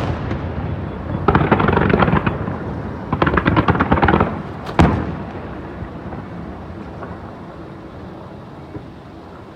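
Aerial fireworks going off: two bursts of dense crackling, a single sharp bang about five seconds in, then the sound slowly dies away.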